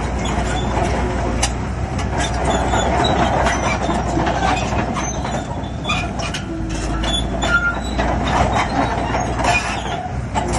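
Shantui crawler bulldozer working: a steady diesel engine hum under the clanking and squeaking of its steel tracks.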